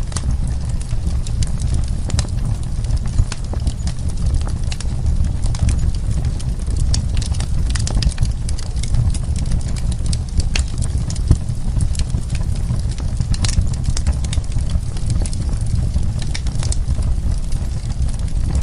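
Burning wood crackling and popping in a fire, with irregular sharp snaps over a steady low rumble of the flames.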